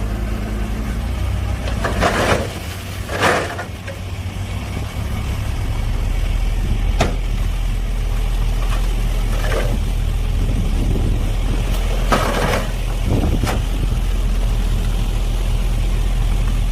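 Heavy diesel construction machinery running steadily, with a handful of short, harsh scraping or cracking noises over the engine.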